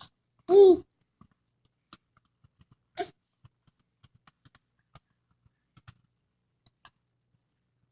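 Infant's short vocal sound about half a second in, its pitch rising then falling, and a shorter one about three seconds in. Faint small clicks in between.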